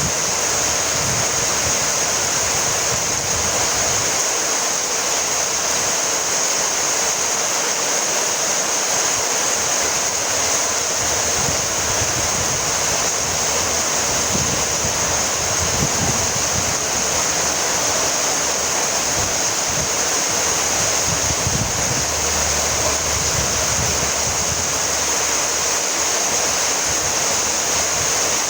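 Steady rainfall, an even hiss with no breaks, with a soft, uneven low rumble underneath.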